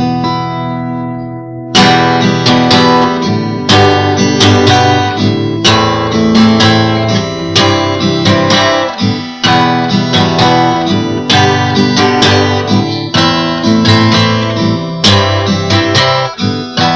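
Acoustic guitar instrumental intro: a chord rings out, then steady rhythmic strumming starts about two seconds in and carries on.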